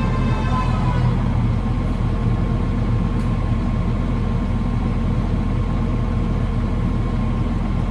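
Vehicle engine running steadily at a constant speed: a low drone with a faint steady whine above it.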